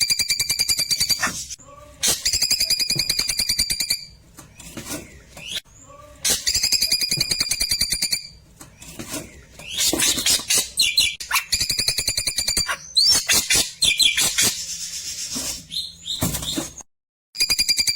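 Klewer bird singing: rapid trilled phrases of a second or two, repeated with short pauses between them.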